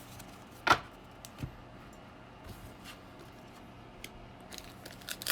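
Baseball cards being handled: one sharp tap or snap about three-quarters of a second in, then faint light ticks and rustling that pick up near the end.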